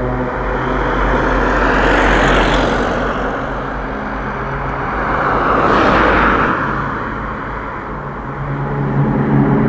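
Two road vehicles pass one after the other, about two seconds in and again about six seconds in. Each time the engine and tyre noise swells and then fades, over a steady low hum.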